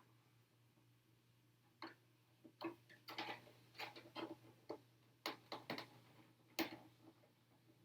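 Irregular small clicks, taps and short crinkly scrapes of plastic being handled: a vinyl sticker pressed and smoothed onto a plastic RC truck body. The sounds come in a quick scattered run starting about two seconds in and stop shortly before the end.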